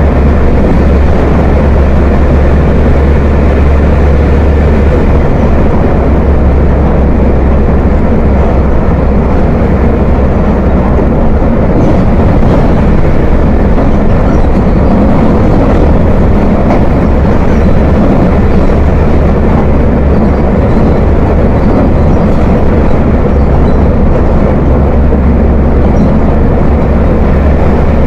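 Volkswagen 17.230 OD bus diesel engine running steadily with a deep, heavy growl and a strong low rumble, loud and unchanging throughout.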